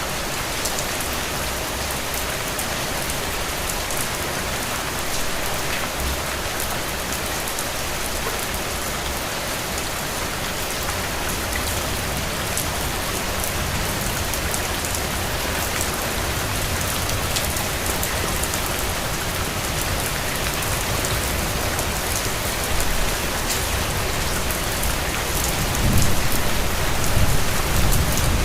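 Steady rain falling, a dense even hiss with fine ticks of individual drops. A low rumble builds in the background and swells in a few surges near the end.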